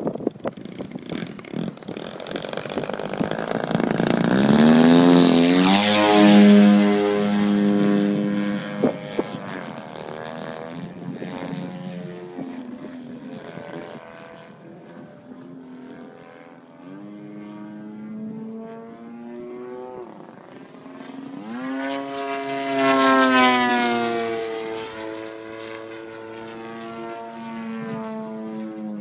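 Small propeller aircraft engine running as the plane flies past twice, loudest about six seconds in and again about three quarters of the way through. Each time its pitch rises and then drops as it goes by.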